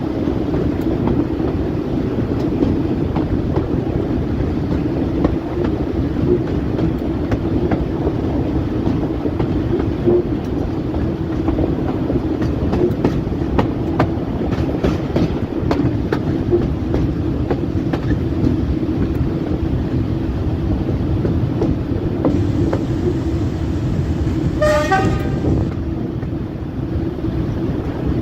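Diesel locomotive running steadily under a low rumble, with intermittent clicks like rail-joint clatter. A short horn blast sounds once near the end.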